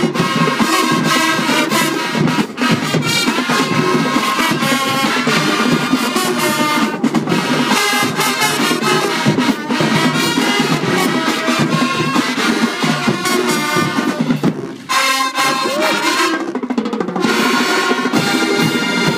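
High school marching band playing a brass-and-drums number, trumpets and trombones over the drumline, with a brief break about fifteen seconds in.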